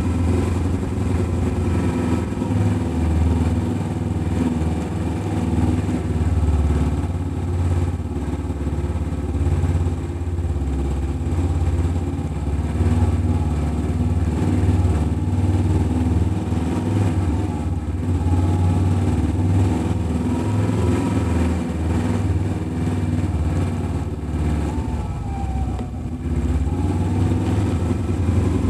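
Kawasaki Ninja 300's parallel-twin engine running steadily while the motorcycle rides slowly, its note rising and falling a little with the throttle.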